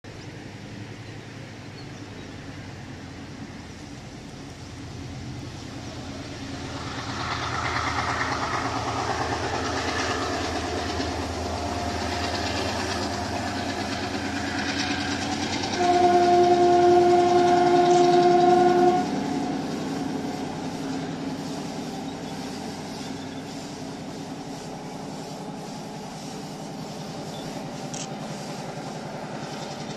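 Diesel-hauled passenger train running along the track, its engine and wheels rumbling louder as it comes nearer. About halfway through comes one long horn blast of about three seconds, the loudest sound, and then the rumble slowly fades.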